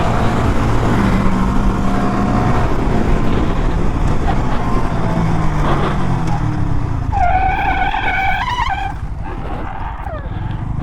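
Mini bike engine running hard in fifth gear under heavy wind noise, its pitch slowly falling as it eases off. A brief high held tone sounds about seven seconds in.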